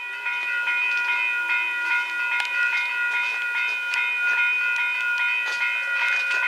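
A train running past with a steady high-pitched squeal from the wheels and rails, with irregular sharp clicks of the wheels over the track.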